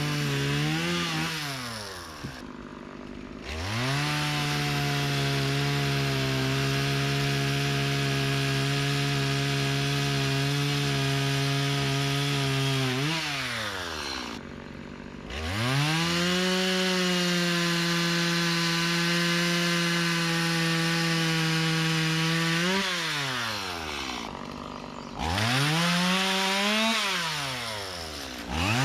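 Gas chainsaw cutting logs: the engine revs up to full throttle and holds a steady pitch for about nine seconds, drops back, holds full throttle again for about seven seconds, then gives two shorter revs near the end.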